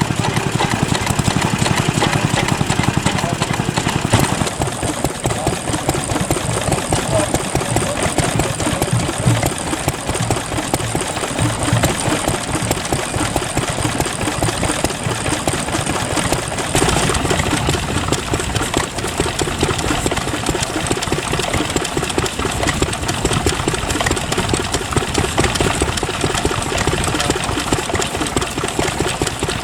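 Vintage stationary engines running with a rapid, regular firing beat. The sound changes abruptly about four seconds in and again at about seventeen seconds.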